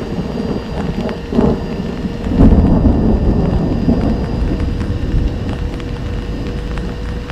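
Thunder rumbling during heavy rain, swelling to its loudest about two and a half seconds in, then rolling on more softly.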